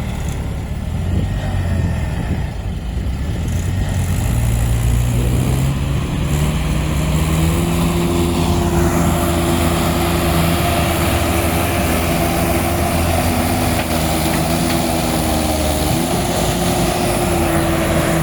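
Tractor engine running, its pitch rising over several seconds as it speeds up, then holding steady and louder.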